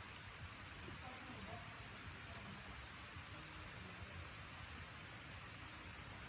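Wood fire of a broken-up wooden noodle box burning: a faint, steady hiss with scattered small crackles.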